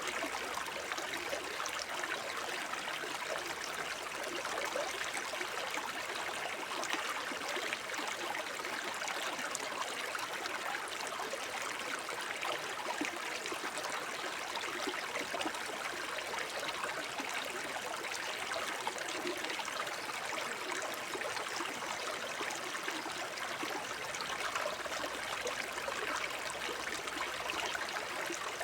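Small forest brook babbling and trickling over stones: a steady, even flow of water.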